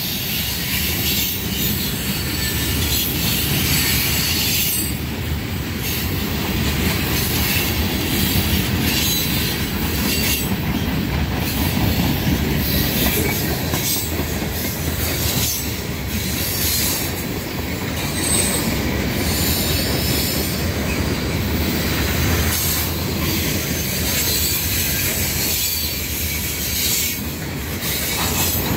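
Freight train cars (covered hoppers, boxcar, gondola and tank cars) rolling past close by: a steady low rumble of steel wheels on rail, with high-pitched wheel squeal that swells and fades every few seconds.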